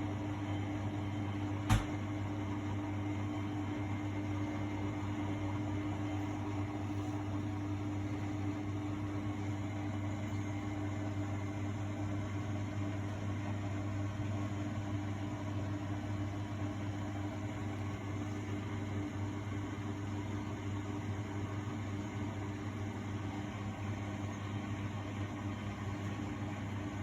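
Miele Novotronic W828 front-loading washing machine running steadily mid-wash with a constant low motor hum. A single sharp click comes about two seconds in.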